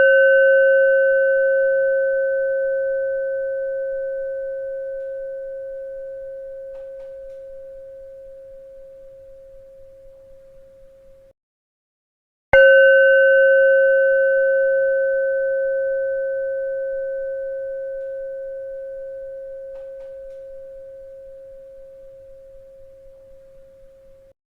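A bell ringing with a single clear, steady pitch that fades slowly over about eleven seconds and then cuts off abruptly. After about a second of silence it is struck again and rings and fades the same way.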